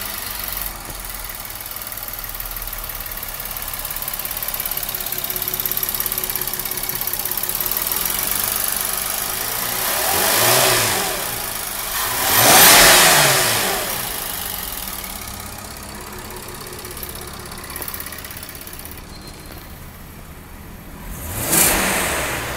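Škoda Superb II facelift's 3.6-litre V6 petrol engine idling, with the throttle blipped three times: a short rev about ten seconds in, a bigger, louder one a couple of seconds later, and another near the end.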